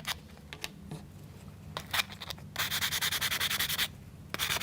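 Sandpaper rubbed quickly back and forth over small wooden kit parts, in two bursts of rapid strokes in the second half, after a few light clicks of the parts being handled.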